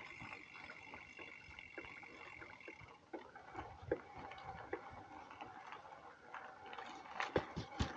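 A bicycle ticking and rattling as it rides over a bumpy field track, with scattered small clicks and a few sharper knocks near the end. A steady high whine sounds for the first few seconds, and a lower steady tone comes in near the end.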